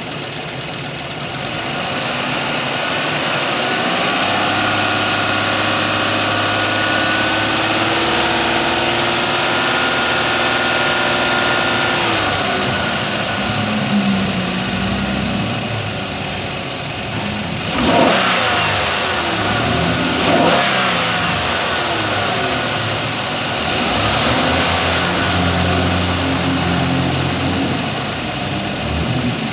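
Chevrolet Silverado 1500's 4.3-litre V6 engine running and being revved. It is held at a raised speed for several seconds, drops back to idle about halfway through, then is blipped sharply twice and held up again for a few seconds near the end.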